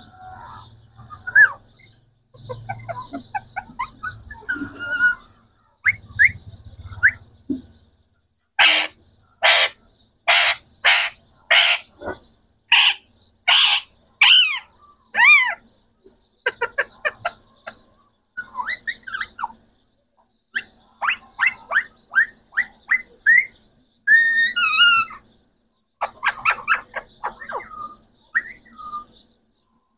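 Green parrots calling and chattering: a run of about ten loud, evenly spaced squawks around the middle, followed by quicker chirps and gliding whistles.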